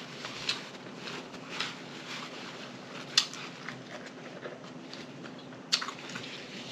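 A person chewing food close to the microphone: wet mouth sounds with a few sharp smacks and clicks spaced a second or more apart, over a faint steady hum.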